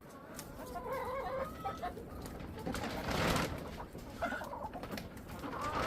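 Hens clucking softly in short, low murmuring calls, with broad noisy gusts of wind on the microphone about three seconds in and again near the end.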